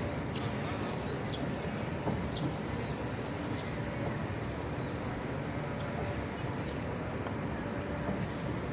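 Outdoor ambience: a steady high-pitched insect buzz over a low, even rumble like wind, with a few short high chirps scattered through it.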